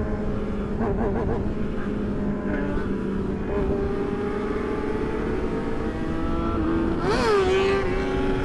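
Sport bike engine running while riding, with a steady low rush of noise underneath. Engine pitch wavers about a second in, and a sharp rev rises and falls about seven seconds in.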